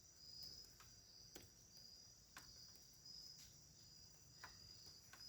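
Crickets chirping steadily in the night air, faint, in a high shrill band that swells about once a second. Faint clicks come through roughly once a second.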